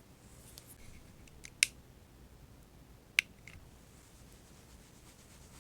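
Two sharp clicks about a second and a half apart, the loudest sounds, with a few fainter ticks around them.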